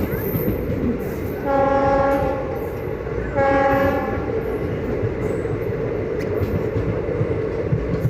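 Indian Railways train with ICF coaches running at speed, a continuous rumble of wheels on rail. The locomotive horn sounds twice, a longer blast about a second and a half in, then a shorter one just after.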